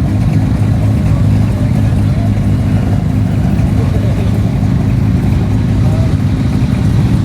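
Car engines running as a queue of cars moves slowly through a show entrance, a steady low sound, with faint voices in the background.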